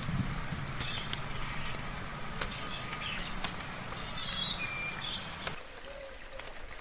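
Birds chirping and whistling in short calls over a steady hiss of rain, with scattered sharp clicks. A low hum underneath cuts off suddenly about five and a half seconds in.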